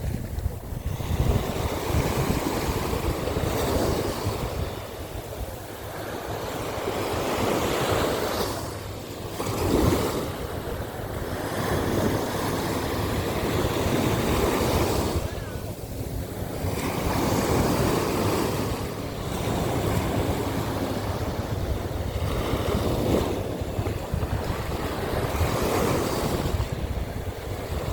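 Sea waves breaking on the beach, the surf swelling and washing back every few seconds, with wind rumbling on the microphone underneath.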